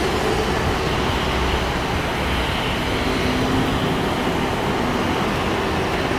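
Steady jet engine noise of a double-decker widebody airliner at takeoff power on its takeoff roll, with a faint steady tone.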